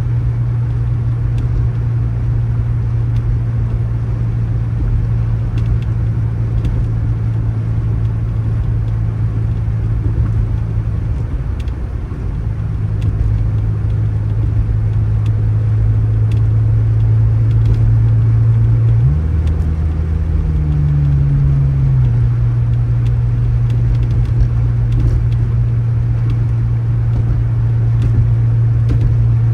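Motor vehicle engine running with a steady low drone. The drone dips briefly around the middle. About two-thirds of the way through, its pitch steps up for a few seconds, then settles back.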